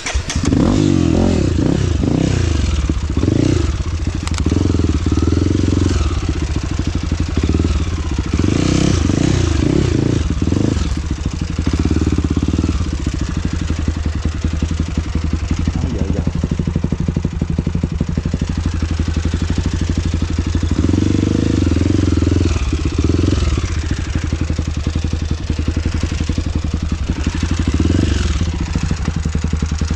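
Trail motorcycle engine catching and then running, the throttle opened and closed again and again so the pitch rises and falls.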